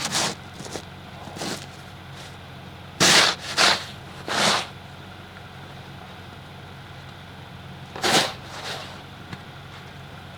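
Car engine idling with a steady low hum, while a few short, loud crunching scrapes come in a cluster about three to four and a half seconds in and again twice around eight seconds.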